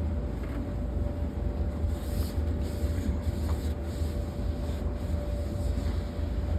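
Steady low rumble with a thin constant hum from laundromat machines running, with a few light knocks.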